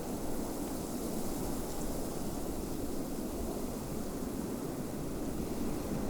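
Snowstorm wind blowing steadily, an even, deep rushing noise with a faint high hiss.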